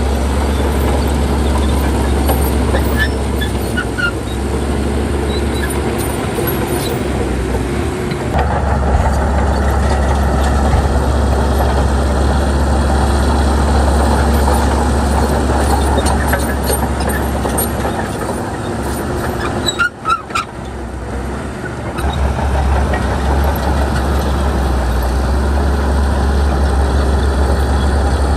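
Heavy diesel earthmoving machinery running steadily under load, with a brief lull about twenty seconds in.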